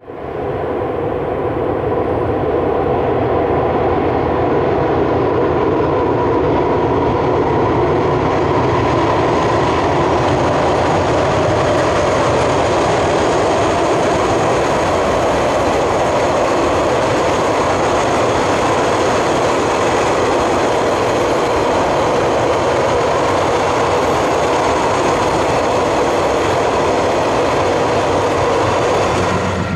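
Container wagons of a KiwiRail freight train rolling across a railway bridge: a steady, unbroken noise of steel wheels on rail.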